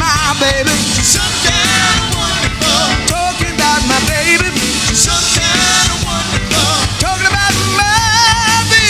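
Rock band playing with a steady beat, with singing whose pitch wavers in vibrato over the band.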